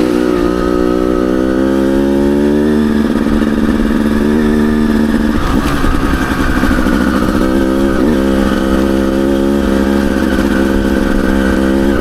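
Dirt bike engine running at a steady pitch, dipping and wavering briefly about halfway through before settling steady again.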